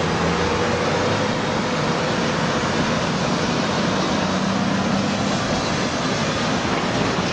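Floodwater rushing in a steady, loud roar of noise, with a faint low hum underneath.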